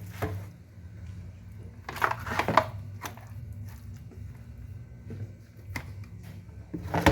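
Raw pork ribs being handled and laid into an oiled baking tray: soft squishing, with a few clatters of the tray, over a steady low hum.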